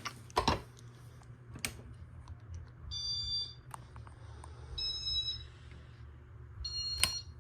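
Three high electronic beeps, each about half a second long and roughly two seconds apart, with a few short clicks between them.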